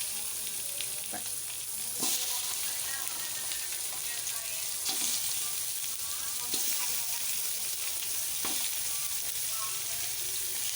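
Raw chicken pieces sizzling in hot oil in a large wok with garlic and onion, the steady hiss broken by a few short knocks as pieces go in one at a time.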